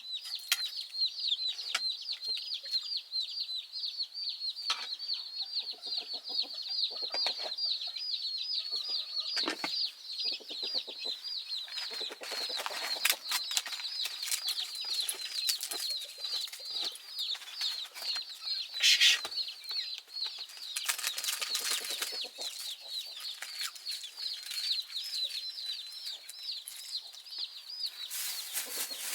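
Chicks peeping nonstop, a rapid run of short high chirps about three a second. It is broken now and then by brief rustling and clattering noises.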